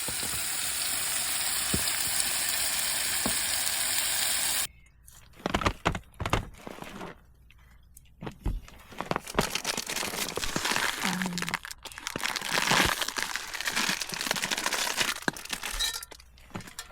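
Meat sizzling in a hot pan as a steady hiss, which cuts off abruptly about four and a half seconds in. After the cut come irregular crinkling and clicking sounds.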